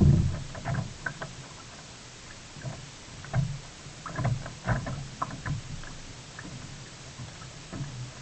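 Water splashing and knocking around a sea kayak as it is paddled, coming in clusters of short sharp splashes with dull thumps, a few seconds apart.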